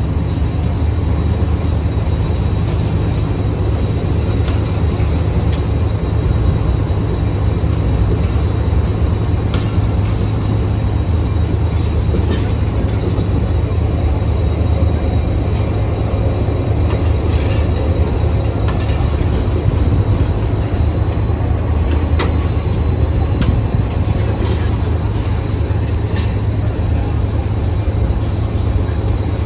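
Diesel locomotive hauling a departing passenger train, its engine running with a steady low drone, with scattered sharp clicks and clanks from the moving train.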